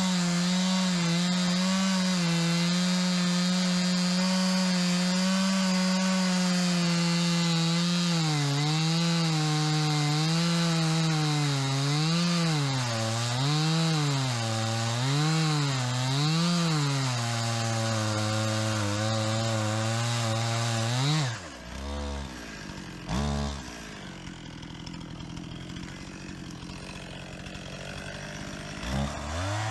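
Two-stroke chainsaw running at high revs, its engine note dipping and recovering over and over as the chain bites into wood, then settling lower. It drops to idle about two-thirds of the way through, blips once, and revs up again near the end.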